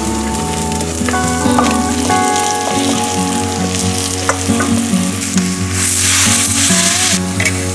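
Jackfruit and vegetables frying and sizzling in a clay pot over a wood fire, with a spoon stirring. About six seconds in, water is poured into the hot pot and the sizzle swells into a loud hiss for about a second and a half.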